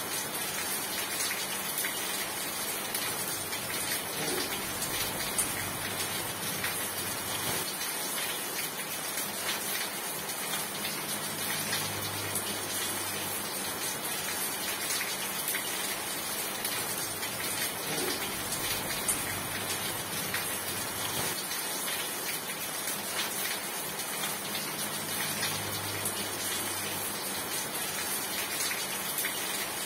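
Steady rain falling: an even, unbroken hiss with scattered drops pattering.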